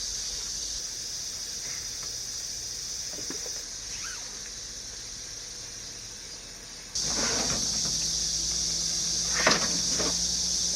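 Steady high-pitched chorus of summer insects, getting louder about seven seconds in, with a few faint scraping and rustling handling noises over it.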